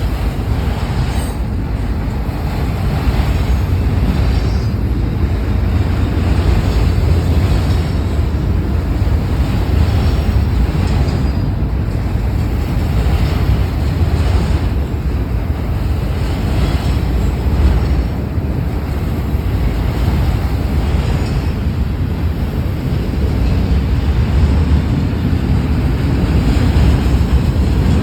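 Freight train rolling past close by with a steady, loud low rumble from its locomotives and railcars. Wind buffets the microphone.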